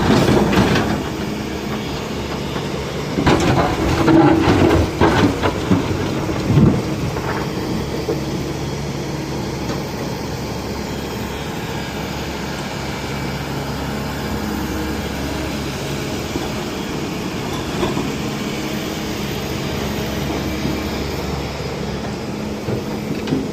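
Kobelco 210 hydraulic excavator's diesel engine running steadily, with bursts of clanking and knocking at the start and again between about three and seven seconds in.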